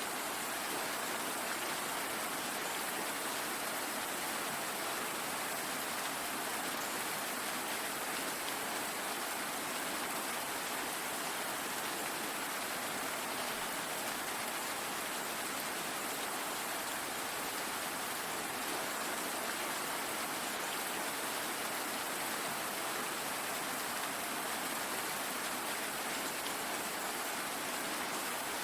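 Steady rainfall, an even hiss of rain with no distinct single drops or changes.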